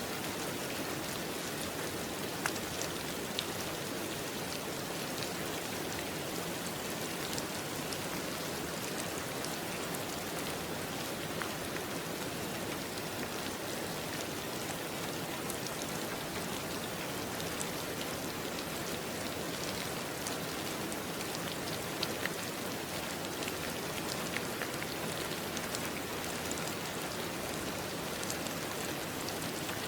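Steady rain falling on a surface, an even patter with individual drops ticking clearly now and then.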